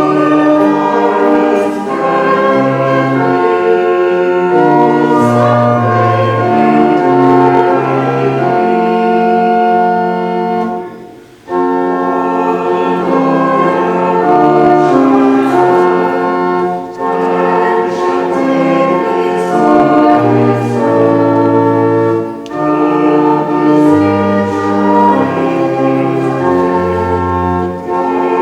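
Voices singing a hymn to organ accompaniment, sustained chords moving line by line, with a brief break about eleven seconds in.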